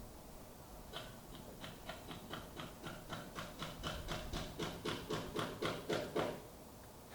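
Hammer blows from nearby building construction: a quick, even run of about twenty strikes, about four a second, growing louder and then stopping.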